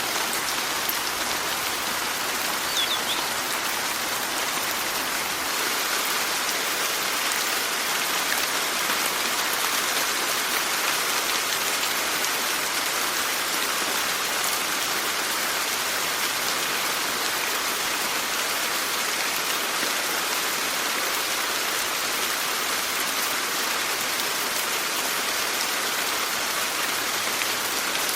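Steady rainfall, an even patter of rain falling on surfaces, with no change in intensity.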